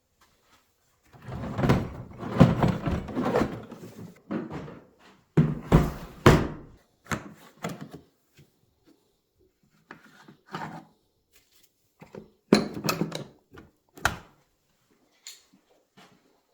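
Irregular knocks and clatter of small metal parts and hand tools being handled on a workbench while a motorcycle brake caliper is stripped down, with dense clusters early and near the middle, then single knocks.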